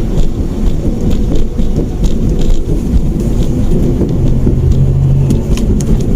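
Mitsubishi Mirage hatchback driving, with heavy low engine and road noise heard from inside the cabin. A steadier engine hum stands out for just over a second past the middle.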